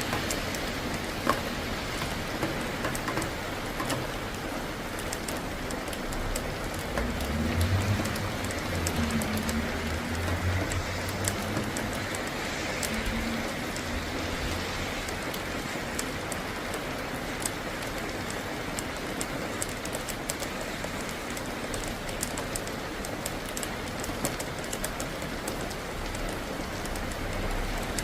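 Steady rain falling, with many small drop ticks, and a low rumble for several seconds starting about seven seconds in.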